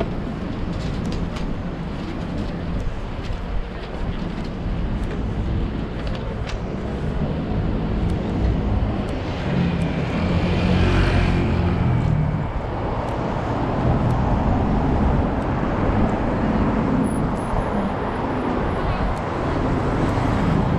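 Road traffic on a town street: a steady rumble of passing vehicles, with one engine passing close and loudest about ten seconds in.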